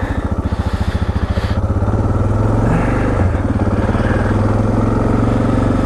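Suzuki DR650SE's single-cylinder four-stroke engine running as the bike rides at low speed, a pulsing beat that smooths out as the revs pick up about two seconds in, then holds steady.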